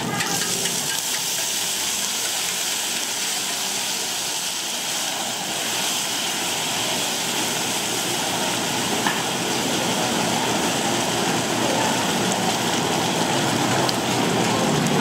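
Food sizzling as it fries in oil: a steady hiss.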